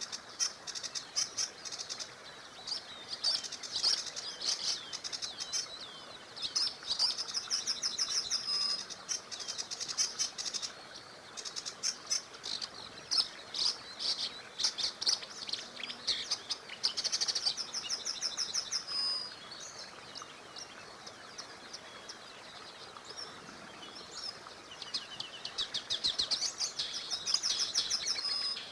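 Several songbirds singing, with rapid trills and chirps overlapping in bursts, over a faint steady rush of a small river.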